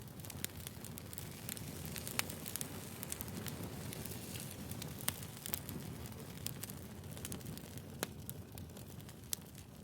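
Wood fire burning: a steady low rumble and hiss with frequent sharp crackles and pops of burning firewood logs.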